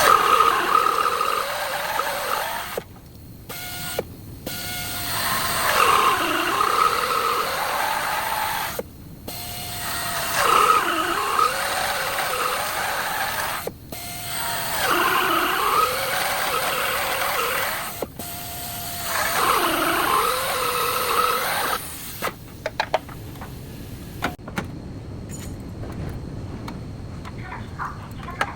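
Handheld power tool cutting sheet metal in four passes of a few seconds each, its whine dipping in pitch as it is pressed into the metal and recovering, with short breaks between passes. Quieter scattered clicks and knocks follow near the end.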